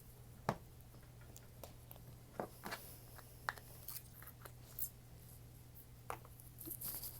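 Faint, scattered clicks and pops of slime being handled and squished, about a dozen over several seconds, over a low steady hum.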